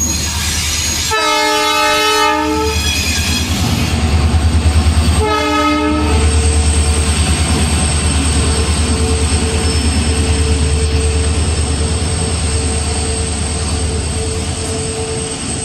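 Diesel locomotive hauling an express passenger train past: its horn sounds twice, a blast of over a second about a second in and a shorter one about five seconds in. Through the rest, the engine and coaches rumble steadily past with a thin steady whine.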